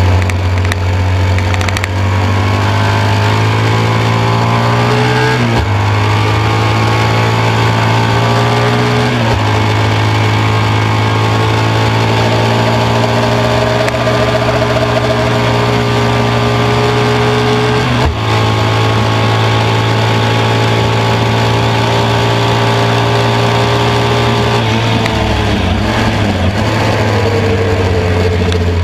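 Air-cooled BMW R75/5 boxer twin racing engine under hard acceleration, heard from on board with wind rush. It breaks sharply three times for gear changes, the pitch climbing between shifts, and eases off near the end.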